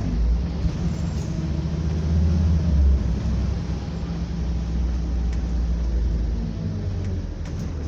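Scania double-decker bus engine running under way, a steady low drone that swells briefly about two to three seconds in, then settles.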